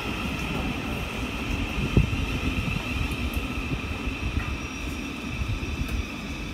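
Electric multiple-unit train running along the tracks: a steady low rumble with a steady high whine over it, and one short thump about two seconds in.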